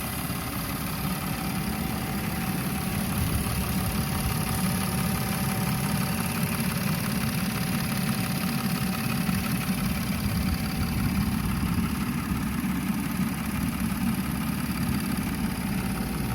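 Audi A5 3.2 FSI's V6 engine idling steadily.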